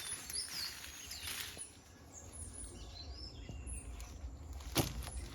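Forest birds calling with short chirps from the trees over steady forest ambience, with a faint high insect call repeating about twice a second. A single sharp snap near the end.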